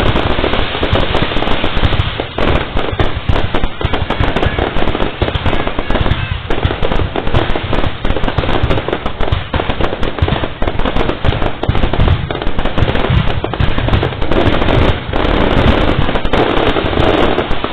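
Aerial fireworks display going off continuously: a dense, loud barrage of overlapping bangs and crackles with no breaks.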